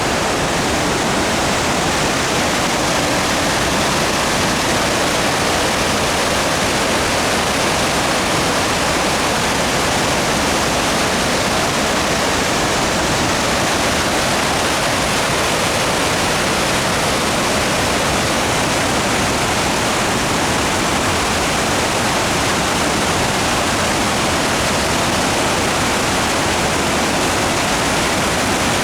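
Eau Claire River in flood rushing over Big Falls, a loud, steady roar of falling water.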